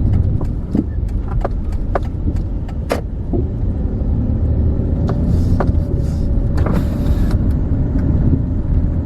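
Inside a car's cabin while driving: a steady low rumble of engine and tyres. Several sharp clicks come in the first three seconds, and a faint steady hum joins about four seconds in.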